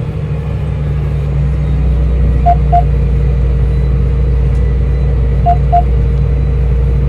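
A tractor engine runs steadily under load while pulling a disc, a low drone that grows slightly louder about a second and a half in. A short electronic double beep sounds twice, about three seconds apart.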